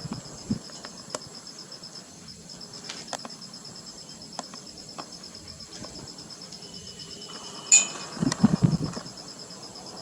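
Insects, crickets or similar, trilling steadily in a high, rapid pulsing chirr, with scattered small clicks. About eight seconds in there is a sharp click followed by a second of louder low thumping.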